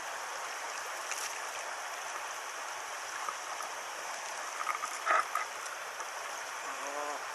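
Small stream flowing steadily over stones, with a short burst of clicks and clatter about five seconds in.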